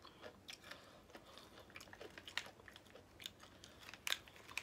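A mouthful of crunchy barbecue-flavoured double crunch peanuts being chewed: faint, irregular crunches, about three a second.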